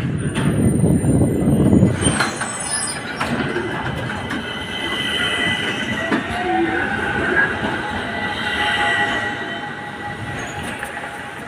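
Tram rumbling along the rails, then its steel wheels squeal with several steady high tones as it slows into a stop, the running noise easing off toward the end.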